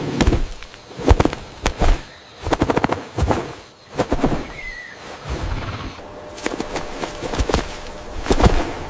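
A series of sharp clicks and knocks, some coming in quick rattling runs, with one brief bird chirp about halfway through.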